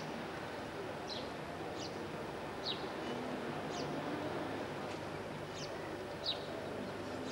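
A small bird calling over and over, about one short, high chirp a second, each falling in pitch, over a steady outdoor background noise.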